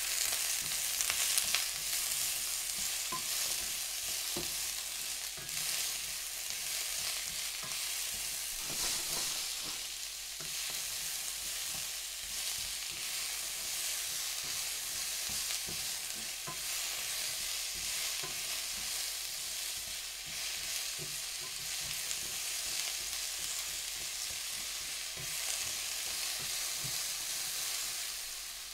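Diced Hokkaido pumpkin, onion and garlic frying in olive oil in a pan: a steady sizzle, with the light scraping and clicking of a spatula stirring the pieces around the pan.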